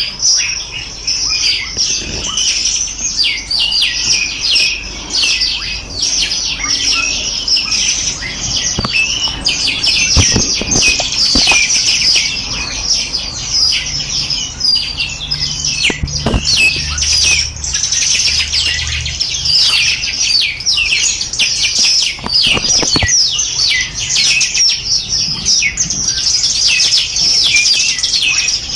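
A dense chorus of many small songbirds chirping and trilling without pause, rapid high notes overlapping one another.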